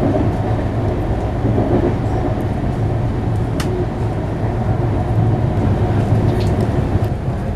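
Steady rumble of a Gatimaan Express passenger coach running at speed, heard from inside the coach, with one sharp click about three and a half seconds in.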